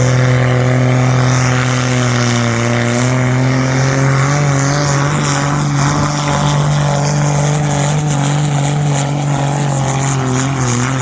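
Competition pulling tractor's engine held at high revs under full load while it drags the weight-transfer sledge down the track. It gives one steady, loud, high note with slight dips in pitch.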